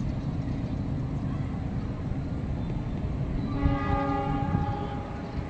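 Train rumbling along the tracks, with a locomotive horn sounding one steady blast for about a second and a half, starting about three and a half seconds in.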